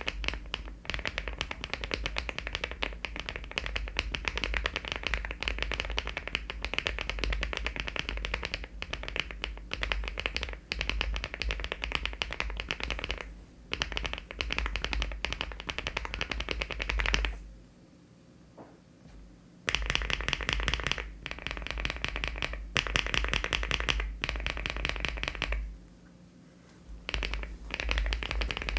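Fast typing on an aluminium LEOBOG Hi75 mechanical keyboard with HMX switches and Cherry-profile keycaps: a dense run of keystrokes that breaks off twice, once for about two seconds past the middle and briefly near the end.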